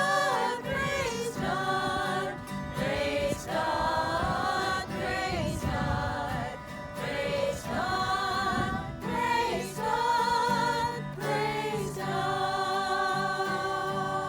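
Gospel hymn sung by a group of voices over a steady accompaniment, with vibrato on the held notes and short breaks between phrases.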